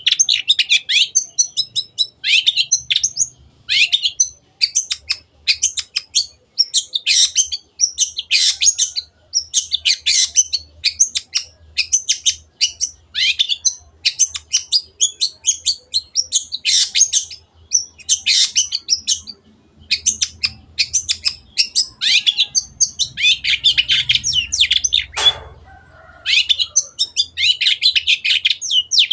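Long-tailed shrike (cendet) singing energetically: rapid, scratchy runs of high chirps and trills in short phrases about a second long, nearly back to back, with one long falling note about 25 seconds in.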